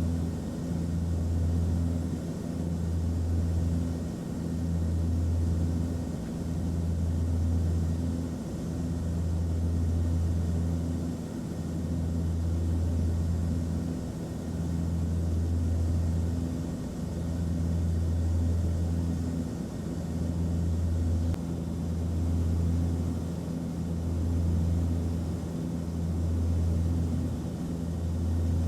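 Airplane cabin noise in flight: a steady drone of engines and rushing air with a strong deep hum and a few steady low tones, the hum swelling and fading about every two seconds.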